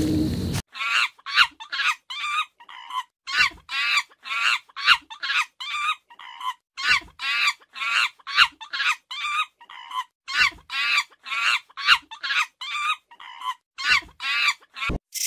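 Young baboon giving a long series of short, high-pitched calls, each bending up and down, about three a second in runs with short pauses.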